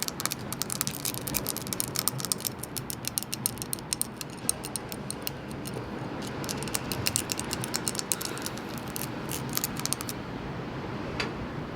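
Seashells being tapped and handled, a rapid run of many light, sharp clicks. The clicks thin out and mostly stop about ten seconds in, with a few more near the end.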